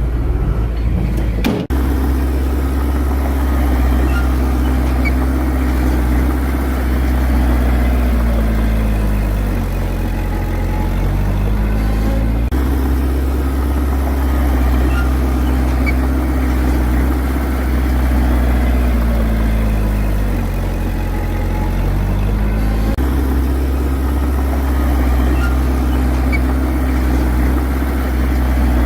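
Bulldozer's diesel engine running steadily. Its pitch sags and then recovers about every ten seconds as it takes load while pushing fill.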